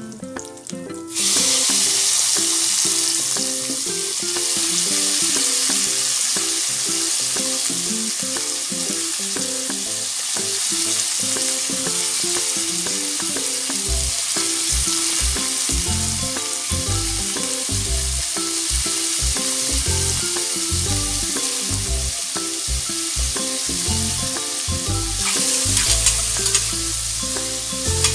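Sliced Chinese sausage and button and shiitake mushrooms frying in a hot stainless steel pan: a loud sizzle starts suddenly about a second in as the mushrooms go into the oil and carries on steadily. In the second half a spatula stirs the pan, with low knocks.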